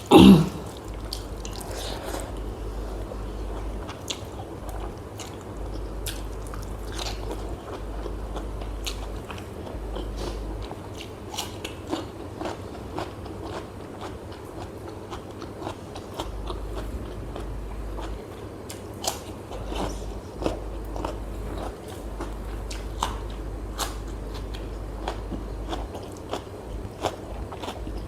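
Close-miked eating: steady biting and chewing with crunchy bites and wet mouth clicks throughout, after one short loud sound at the very start.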